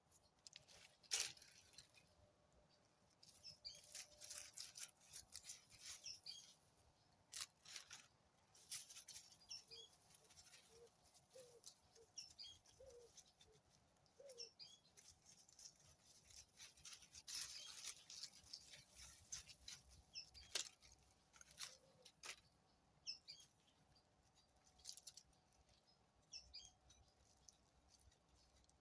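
Faint forest ambience: scattered small bird chirps, with irregular sharp crackles and snaps like dry leaves and twigs being disturbed, loudest about a second in and around 17–22 s.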